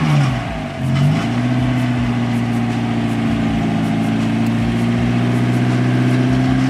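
Kia car engine revved: a quick rise and fall in engine speed, then held at a steady raised speed that creeps slowly higher.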